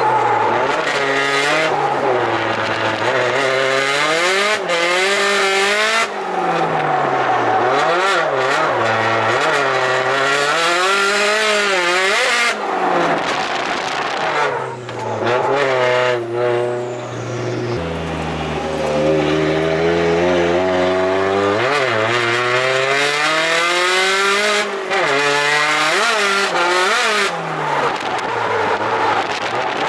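Car being driven hard on a race track: the engine revs rise and fall again and again with gear changes, it holds one steady pitch for a few seconds past the middle, and the tyres squeal.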